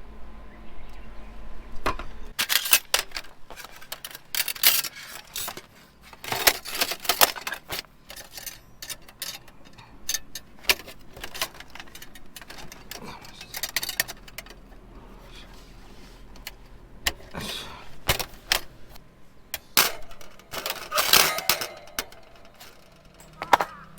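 Camping gear being handled: irregular clinks, knocks and rattles, with clusters of clatter a few seconds in and again near the end.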